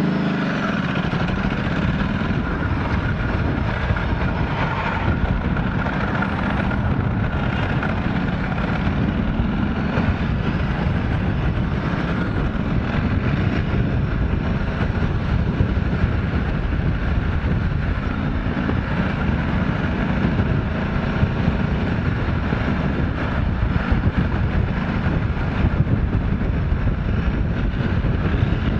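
Motorcycle in motion heard from a helmet-mounted camera: steady wind rush over the helmet mixed with the engine running.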